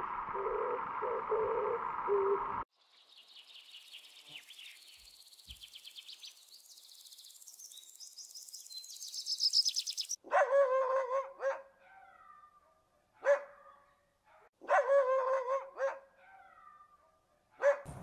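A steady droning tone with a few low pulses, cut off after about two and a half seconds. Then a northern cardinal singing: high rapid chirps that speed up and grow louder. Then an unseen animal's loud pitched calls, two long ones about a second each and two short ones.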